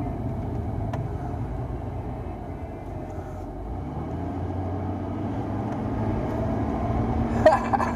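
Vehicle engine and road noise, a steady low rumble whose engine note climbs slowly through the second half.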